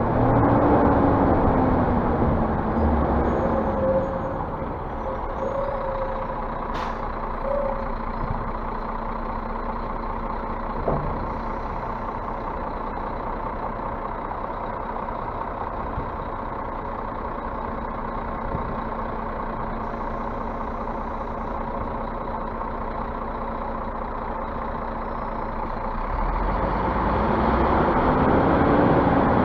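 Scania bus's diesel engine: its revs fall in the first few seconds, it runs steadily at low revs for most of the time, then revs rise again near the end. A brief sharp click sounds about seven seconds in.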